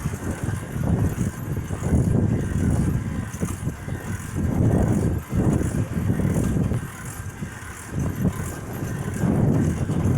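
Wind buffeting the microphone of a camera carried on a moving bicycle: a low rumble that swells and drops in uneven gusts.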